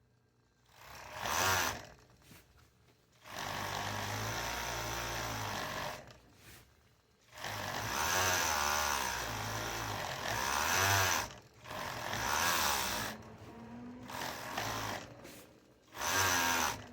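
Electric sewing machine running in start-stop bursts of one to three seconds, its motor speed wavering within each run, about seven runs in all.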